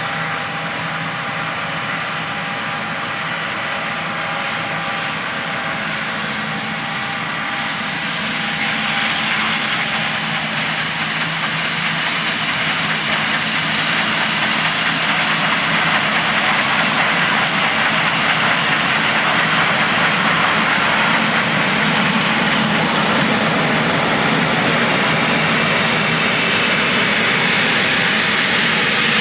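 John Deere S670 combine harvester running in the field, a steady engine hum at first, then a louder rushing noise that builds over several seconds and holds as the machine comes nearer.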